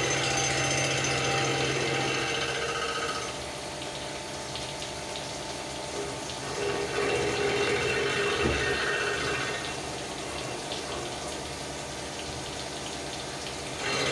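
CNC milling machine cutting a cast pump volute, with coolant splashing over the work. The cutting is louder for about the first three seconds and again from about seven to ten seconds in, quieter between, with one sharp knock about eight and a half seconds in.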